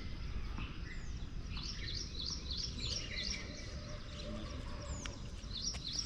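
A small bird chirping in quick runs of short, repeated high notes, twice, over a steady low background rumble.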